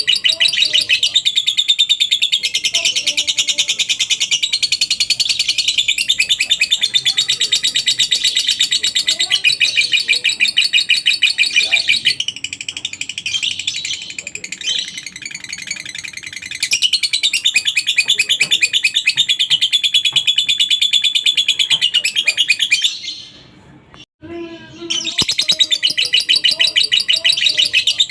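Lovebird giving a long 'ngekek' song: a fast, continuous high-pitched chatter of rapidly repeated notes. It softens for a few seconds in the middle and breaks off briefly near the end before starting again.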